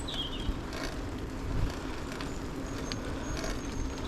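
Woodland birds singing in short high chirps and thin whistles, a falling chirp right at the start and brief high whistles about three seconds in, over the steady rumble of bicycles rolling along a trail.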